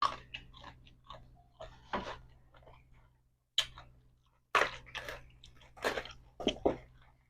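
A person chewing a mouthful of seafood papaya salad close to the microphone: irregular wet, crunchy bites.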